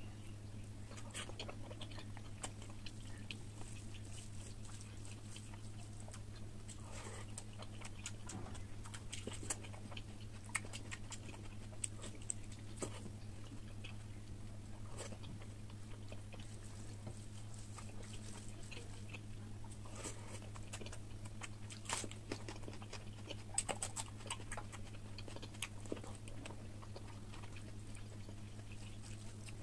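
A person chewing soft, oily mutton fat curry with rice, with many short wet smacks and clicks, and fingers squishing rice and gravy. A steady low hum runs underneath.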